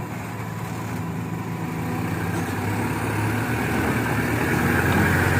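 Truck's diesel engine running hard under load, growing steadily louder as it strains to pull through soft mud while being pushed.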